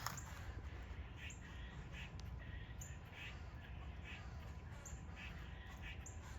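Squirrels giving repeated alarm barks, short calls about twice a second: the warning they give when they spot a possible predator, which the owner guesses may be a snake.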